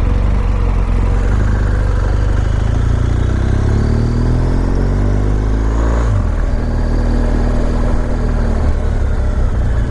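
BMW R1200GS boxer-twin engine pulling at low speed. Its pitch rises for a few seconds, breaks off about six seconds in, and then holds steady. Heavy wind rumble sits on the microphone underneath.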